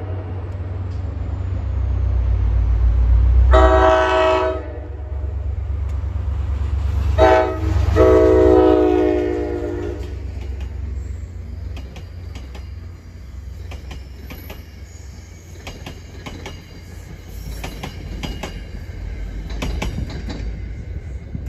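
A passenger train's locomotive horn sounds a long blast, a short one and a final long blast, completing the long-long-short-long grade-crossing signal, over the low rumble of the approaching train. The coaches then roll past, with rapid clicking of wheels over the rail joints as the rumble fades.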